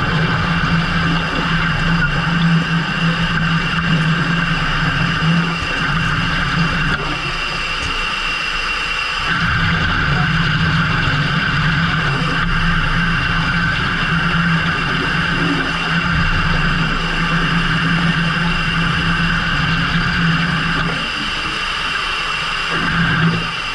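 Fishing boat's engine running steadily, its note dropping back for a couple of seconds about a third of the way in and again near the end.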